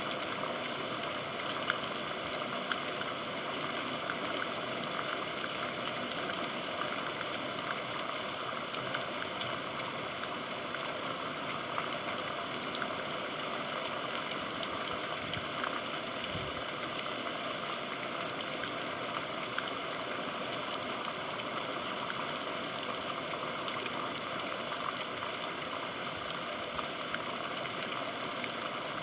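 Steady rainfall: an even hiss of rain with scattered sharp ticks of individual drops striking a surface.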